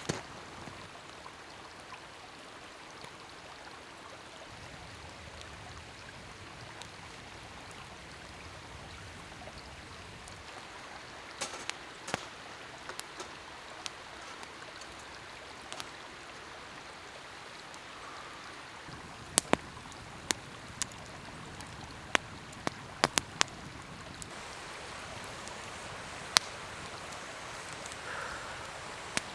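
Campfire burning: a steady soft hiss with scattered sharp pops from the burning wood, most of them in the second half.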